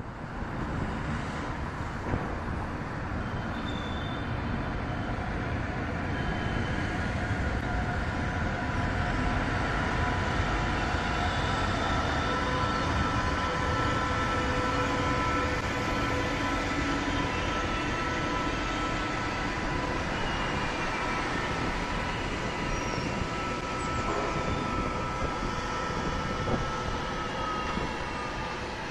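Train rolling over a steel truss railway bridge: a steady rumble of wheels and rails with thin, steady whining tones on top.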